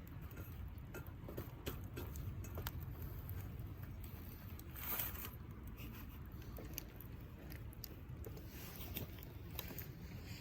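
Scattered small clicks and crackles over a low steady rumble, with a brief rushing noise about five seconds in.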